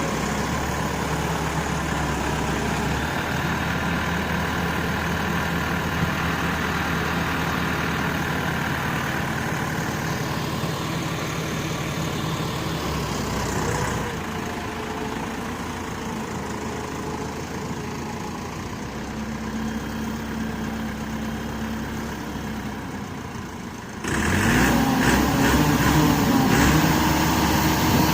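Massey Ferguson 385 tractor's diesel engine running steadily. It changes abruptly about 14 and 24 seconds in. In the last few seconds it is louder and rising in pitch as it revs, working to pull its trolley out of mud.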